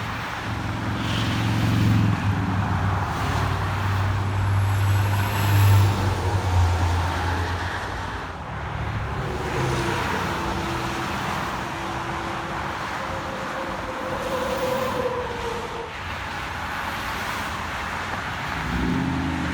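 Roadside traffic: a heavy engine passes in the first several seconds, loudest about six seconds in, then fades into steady road noise from passing vehicles.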